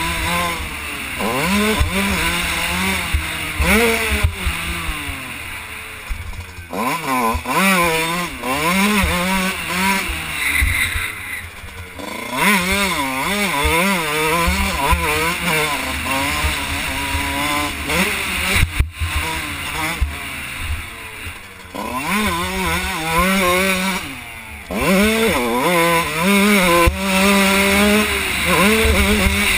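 2001 Kawasaki KX125's single-cylinder two-stroke engine, heard from the rider's helmet, revving up and down over and over as the throttle is opened and chopped. The pitch rises and falls repeatedly, with brief drops in level a handful of times.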